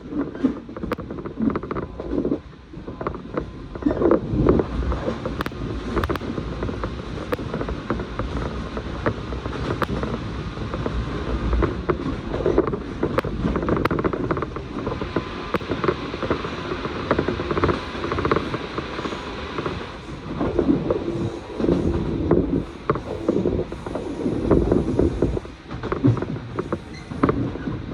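Running noise heard inside a moving electric train: a steady rumble of wheels on the rails, with frequent irregular clicks and creaks from the car.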